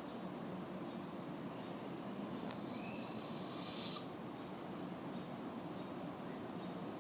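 Barred owl giving one high-pitched screeching call about a second and a half long, starting about two seconds in; its pitch dips a little, then rises sharply just before it cuts off. A steady low hiss of background noise lies underneath.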